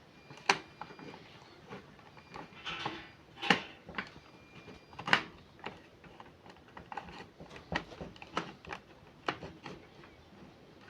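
Irregular clicks and knocks of hard objects being handled and set down, a few leaving a brief metallic ring.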